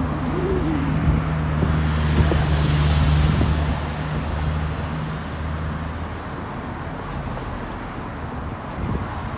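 Road traffic: a vehicle engine's low, steady note passing by, loudest about three seconds in and fading out by about six seconds, over a steady wash of road noise.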